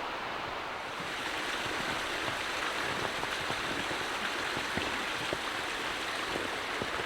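Small creek running: a steady rush of flowing water that grows a little louder about a second in.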